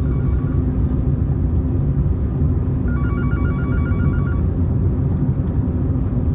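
Steady road and engine noise of a car being driven. Twice, a rapid string of short electronic beeps in a two-note ringing pattern cuts in, like a phone ringtone, the second time about three seconds in.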